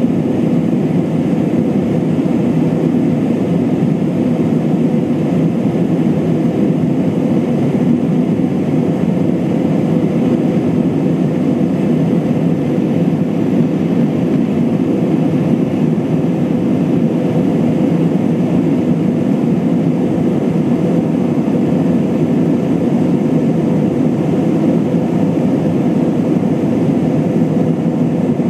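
Steady in-flight cabin drone of an Airbus A320-232: its IAE V2500 turbofan engines and the airflow over the fuselage make a low, even rumble with a faint steady hum, unchanging throughout.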